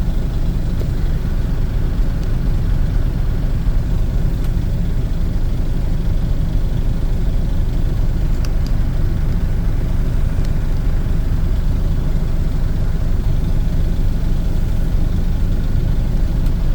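Dump truck's diesel engine idling with a steady low rumble, heard from inside the cab.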